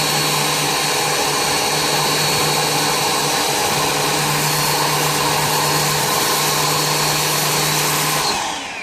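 Vax P89P2P electric pressure washer spraying through its turbo nozzle: a steady motor hum under a loud hiss of spray. Near the end the trigger is released and the motor winds down.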